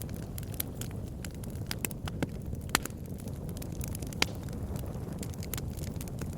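Campfire crackling: frequent sharp pops and snaps over a steady low rush of burning, with two louder pops near the middle.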